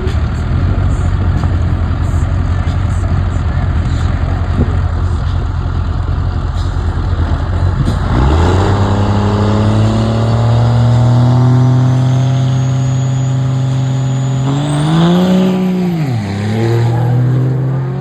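Drag race between a turbo-diesel pickup truck and a Dodge Viper: a heavy, steady engine rumble at first, then about eight seconds in an engine climbs in pitch in one long accelerating pull with a faint rising whistle above it. Near the end the note dips sharply, climbs again, and begins to fade.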